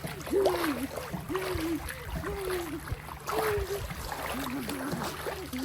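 A voice making wordless, gliding sounds, short rising-and-falling tones one after another, over pool water lapping with a few soft low knocks.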